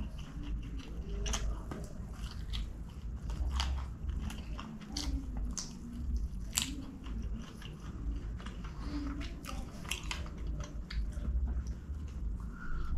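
Close-miked mouth sounds of a person eating devilled chicken by hand: biting and chewing, with irregular wet smacks and clicks, over a low steady hum.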